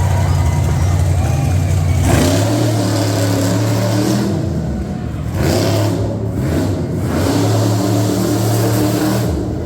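Monster truck engine revving loudly, its pitch climbing about two seconds in and again near the end, then holding between the revs.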